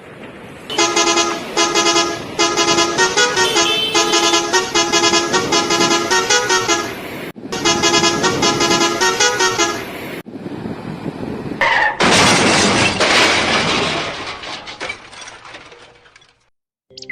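A vehicle horn beeping a rhythmic tune of short notes that change pitch, repeated for about nine seconds. After a short pause, a loud rushing noise starts and fades away.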